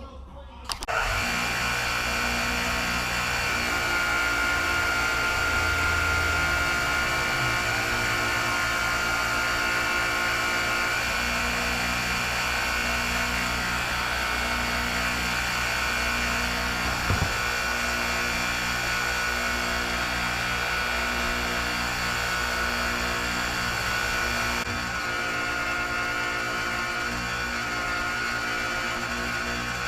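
Honda GX160 single-cylinder engine starting abruptly about a second in, then running steadily with a high whine over its low drone; a brief knock about halfway through.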